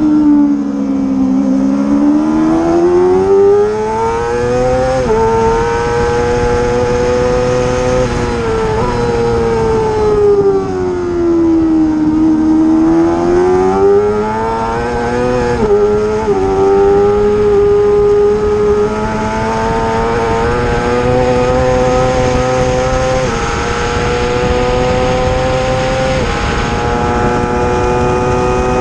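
Racing motorcycle engine at high revs on a circuit. Its pitch sinks twice as the bike slows and climbs again as it accelerates. It drops abruptly at each gear change, with several quick upshifts in the second half.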